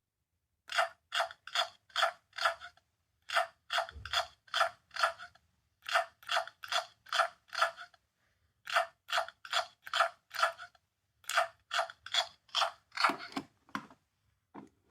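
Sound-making capsule toy playing a short recorded sound effect over and over: rasping, ratchet-like strokes about two and a half a second, in groups of five with short pauses between them.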